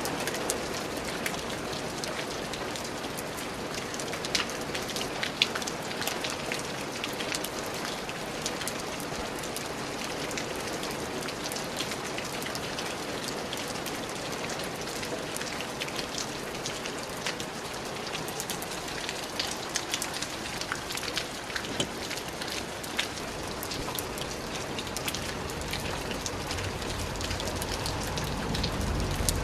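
Steady rain falling on a surface, a continuous hiss full of fine, separate drop patters. A low rumble swells near the end.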